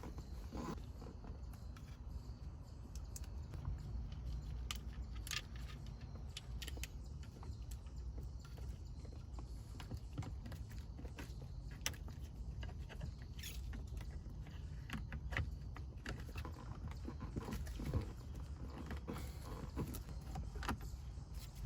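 Scattered small clicks, taps and creaks of hands handling and fitting plastic car-interior trim parts, over a steady low rumble.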